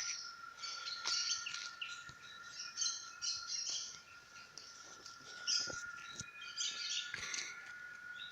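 Forest birds chirping and twittering in short clusters of high notes, over a steady thin high tone.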